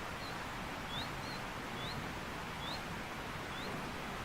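A small bird repeating a short, high, upward-sliding chirp about once a second over a steady hiss of outdoor background noise.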